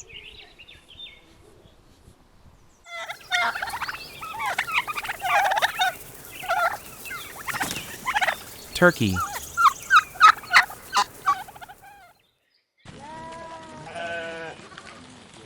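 Domestic turkeys gobbling in a run of rapid, rattling calls, with a sharp burst of gobbles about two-thirds of the way in. A quavering bleat follows near the end.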